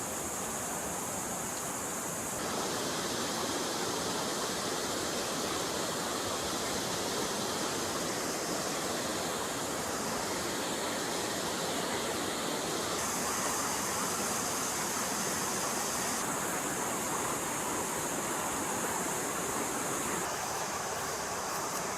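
Forest stream water flowing and rushing steadily. Its high hiss changes abruptly a few times.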